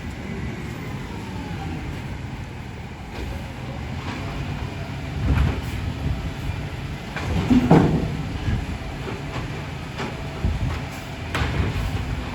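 Garbage truck engine running steadily, with several loud clunks and bangs, the loudest about five, seven and a half and eleven seconds in.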